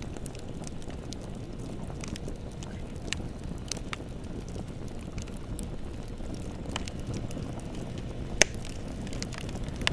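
Bonfire burning: a steady low rumble with scattered sharp crackles of burning wood and one loud pop about eight and a half seconds in.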